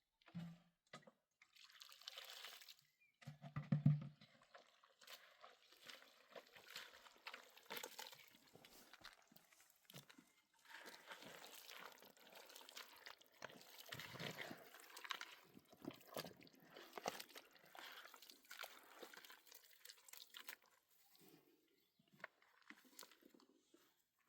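Faint sounds of water being handled, trickling and dripping, among scattered light knocks and clicks. A short low hum about four seconds in is the loudest moment.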